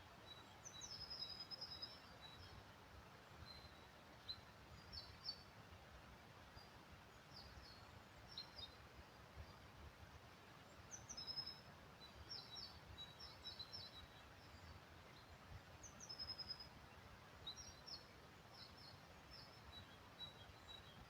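Small songbirds singing faintly in short, high phrases every second or two over a steady, quiet hiss of early-spring woodland.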